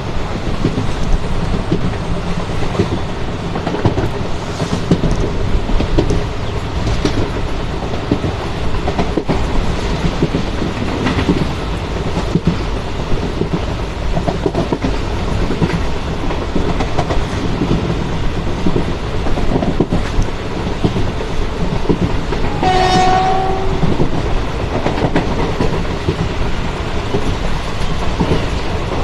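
Passenger train running along the track: a steady rumble with the clickety-clack of wheels over rail joints. Late on, the locomotive sounds one short horn blast of about a second.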